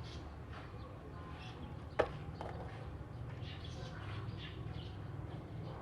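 Oriental magpie-robin (kacer) giving short, scattered chirps and song notes over a low background rumble, with one sharp click about two seconds in.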